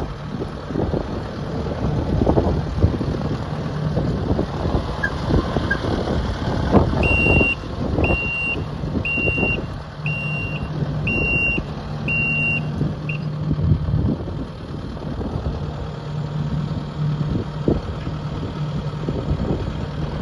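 Kubota SVL75-2 compact track loader's diesel engine running, with frequent clanks and knocks as the machine moves. Partway through, its backup alarm beeps six times at about one beep a second, a sign that it is reversing.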